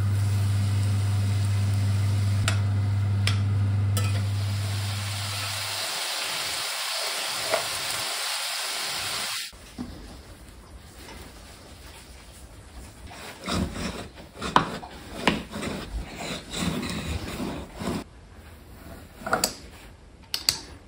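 Chopped tomatoes sizzling as they go into a hot pan of frying onions and garlic, with a steady low hum under it for the first six seconds. The sizzle cuts off about nine seconds in, and is followed by quieter scattered knocks, taps and scrapes of kitchen tools on a wooden worktop, ending with a pizza cutter wheel rolling through pasta dough.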